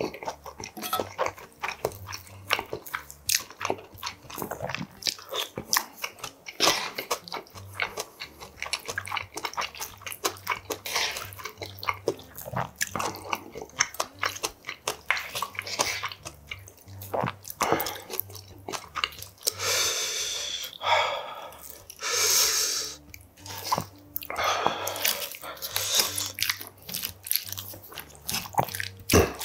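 Close-up eating sounds: chewing and biting of spicy stir-fried budae bokkeum with rice, among many short clicks and scrapes of a wooden spoon against a brass bowl and a wooden spatula against a metal pan.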